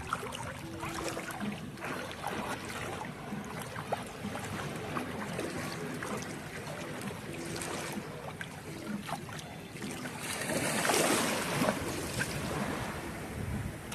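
Sea surf washing on the shore, with wind buffeting the microphone; a wave surges louder about ten seconds in.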